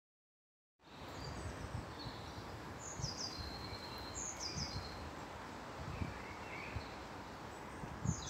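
Outdoor ambience that cuts in abruptly about a second in: a songbird repeats a short, high, falling phrase several times over a steady background hiss, with a few soft low bumps.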